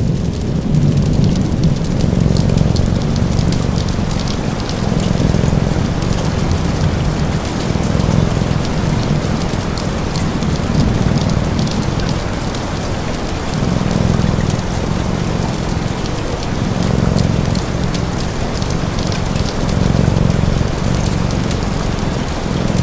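Steady rain mixed with the light pops of a crackling wood fire and a cat's low purr that swells and fades about every two to three seconds.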